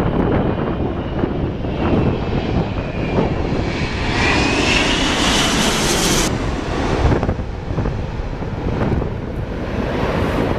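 Engine Alliance GP7200 turbofans of an Emirates Airbus A380 on landing approach, passing overhead: a rising high whine builds over a few seconds, then its high end cuts off suddenly, over a low rumble. Heavy wind buffets the microphone throughout.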